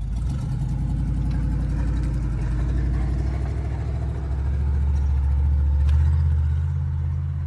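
An engine running steadily, growing louder about six seconds in and easing off near the end.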